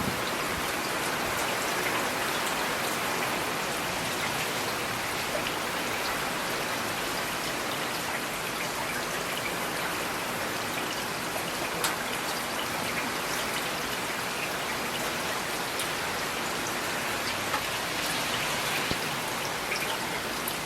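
Steady rain falling, with individual raindrops ticking on a hard surface.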